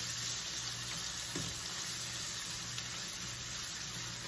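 Beef sausage, peppers and onions sizzling in hot oil in a small frying pan, with a spatula scraping and stirring them; one sharper knock of the spatula on the pan about a second and a half in.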